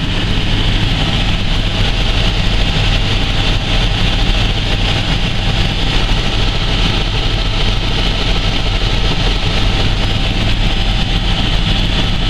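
Helicopter in flight: a loud, steady drone of engine and rotor that holds level with no change in pitch.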